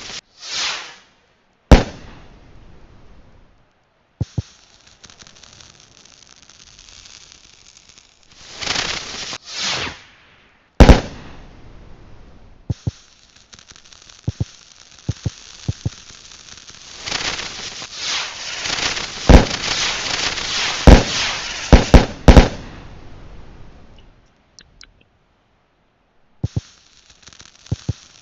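Fireworks going off: hissing swells, several sharp bangs, and a dense run of crackling and bangs in the second half that dies away near the end.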